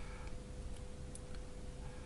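A few faint, light clicks over a steady faint hum.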